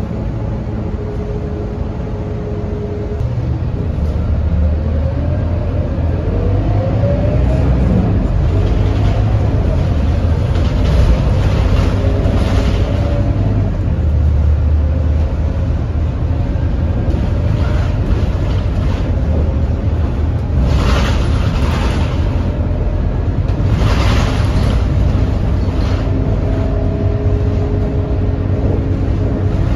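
Scania K230UB city bus's diesel engine running at a steady note. A few seconds in it grows louder as the bus pulls away, the pitch rising. Later come a few short bursts of hiss, and near the end the engine settles back to a steady note.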